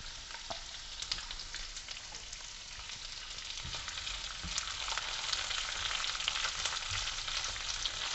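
Chunks of red onion sizzling in hot oil with minced garlic in a nonstick wok, with crackles, as they are stirred with a spatula. The sizzle grows louder about halfway through.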